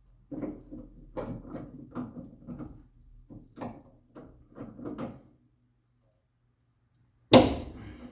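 Metal hand tools (sockets, extension bar) rattling and clinking in a run of irregular short knocks for about five seconds, then one loud metallic clank a couple of seconds later that rings briefly.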